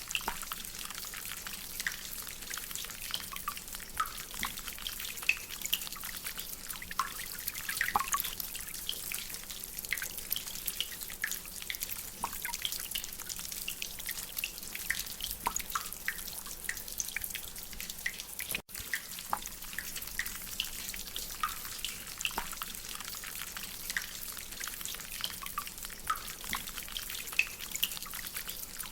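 Rainwater dripping from a drainpipe: irregular drops plinking over a steady hiss of rain, with a split-second dropout about two-thirds of the way through.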